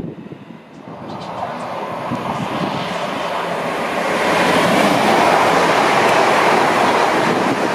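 A train going by on the line: its noise builds over the first few seconds and then holds loud.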